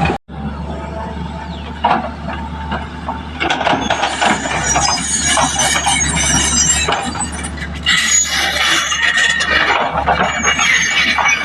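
Heavy road-construction machinery working: a steady low engine drone under loud, repeated high metallic squealing and clinking.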